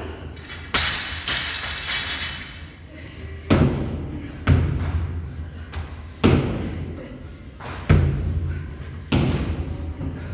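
A series of heavy thuds, about one every second or so, with a brighter clattering rattle near the start: gym weights being dropped onto the floor during a workout.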